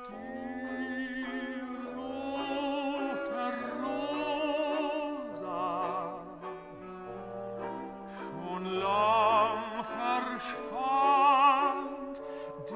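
Classical music: an operatic voice sings held notes with wide vibrato over orchestral accompaniment.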